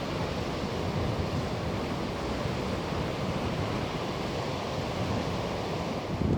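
Sea surf washing onto a beach: a steady, even rushing noise with some wind in it.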